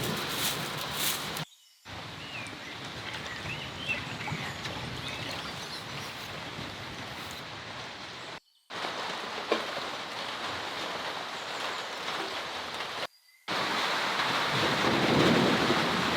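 Heavy rain pouring down in a steady hiss, which drops out abruptly a few times. A louder low rumble sets in near the end.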